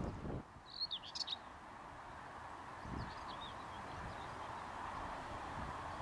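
A small songbird gives a brief burst of high, scratchy chirping notes about a second in, then fainter chirps a few seconds later, over a steady background hiss.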